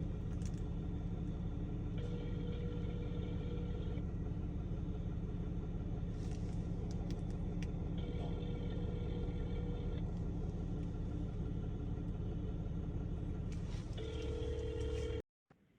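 Telephone ringback tone heard over a phone's speaker, three rings of about two seconds each with about four seconds between, as a call to 911 connects, over the steady low hum of an idling vehicle engine. The sound cuts off abruptly near the end.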